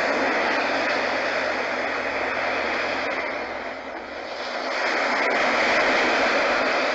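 HoMedics Sound Spa portable sound machine playing its ocean setting: a steady surf-like rushing noise that eases about four seconds in, then swells back up.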